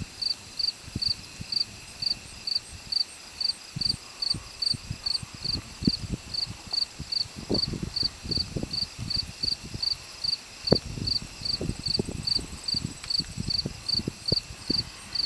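Crickets chirping in a steady rhythm, about three high chirps a second, with scattered low thuds mixed in, thicker in the second half.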